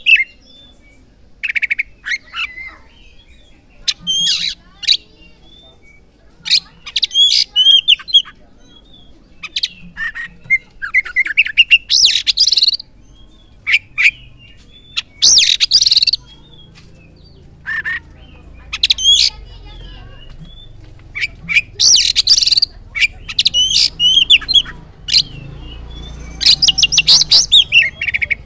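Oriental magpie-robin song played as a lure recording: loud, high whistled and chattering phrases coming in bursts with short pauses between. Several harsh rasping outbursts are louder than the rest.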